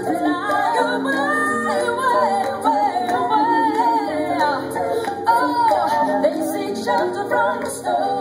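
Live song: a woman singing a gliding melody over sustained instrumental backing.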